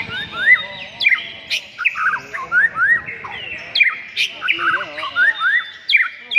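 Many songbirds chirping and singing at once: a dense, unbroken chorus of quick rising chirps and trills from several birds overlapping.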